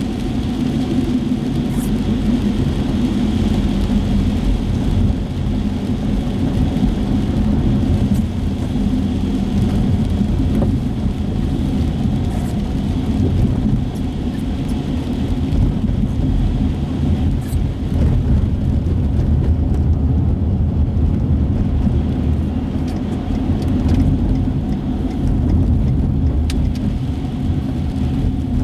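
Road noise inside a moving car's cabin: a steady low rumble of engine and tyres on wet streets, with a few faint clicks.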